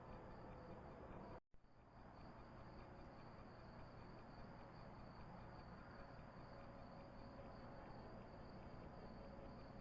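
Faint, steady trilling of night insects such as crickets over a low hiss, with a brief gap of total silence about one and a half seconds in.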